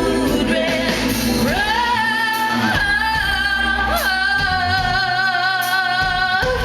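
A woman singing live on stage, holding two long notes with vibrato over a low accompaniment, heard as a concert recording in a large room.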